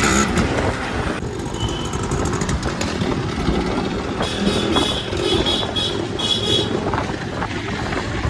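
Motorcycle running on the road, with engine rumble and rushing wind on the microphone. A few short high-pitched tones sound about halfway through.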